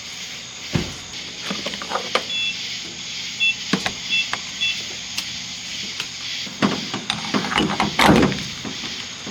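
Scattered clicks and knocks over a steady hiss, with four short double beeps about two to five seconds in and a cluster of louder knocks near the end.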